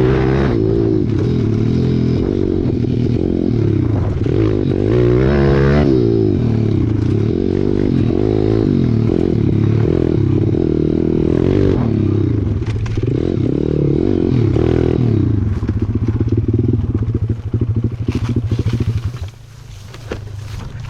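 Pit bike engine revving hard as it is ridden, its pitch climbing and falling again and again with throttle and gear changes. About 16 seconds in it settles to a rapid, even putter, and about 19 seconds in the engine sound drops away sharply.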